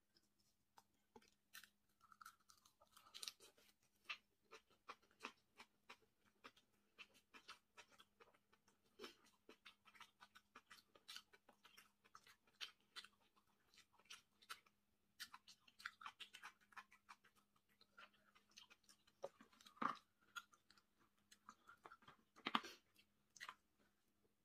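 A person chewing seafood close to the microphone: quiet, irregular mouth and teeth clicks with wet chewing, a couple of louder ones near the end.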